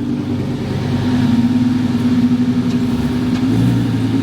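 A car engine running steadily, its note stepping up slightly about three and a half seconds in.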